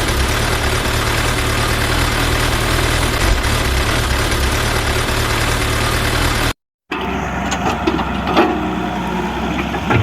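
A heavy vehicle engine running loud and steady under a dense hiss of noise. It cuts off abruptly about two-thirds of the way in. It is followed by a quieter idling engine with scattered knocks and clanks.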